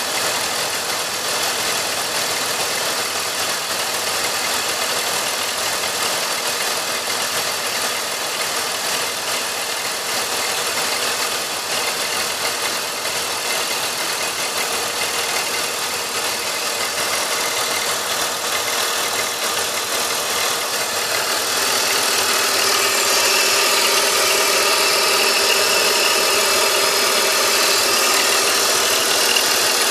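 BMW M54B25 2.5-litre straight-six idling steadily shortly after a cold start; the sound grows louder about two-thirds of the way through.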